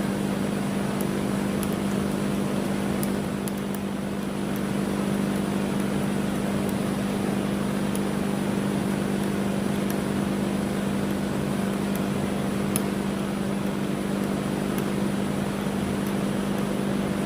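Electric drill running steadily with a constant hum, boring out the rear trunnion with a 3/16-inch bit.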